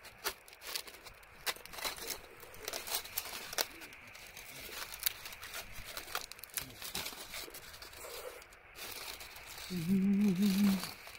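Irregular crinkling and tearing of a hot stone-baked sweet potato being broken open and its skin peeled. A short hummed voice is heard about ten seconds in.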